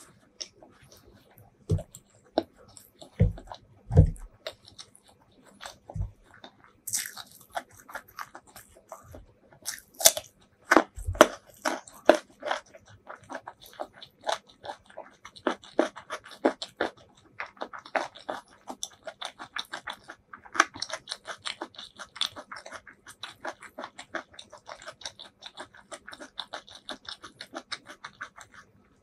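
Close-up ASMR chewing: a few dull thumps in the first several seconds, then steady chewing with quick, crisp mouth clicks.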